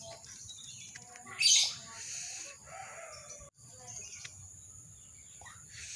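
Lovebird calling: one loud, harsh screech about a second and a half in, then softer scattered chattering calls.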